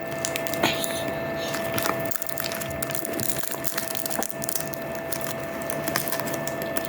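Close-miked eating sounds: chewing with small scattered mouth clicks, over a steady background hum.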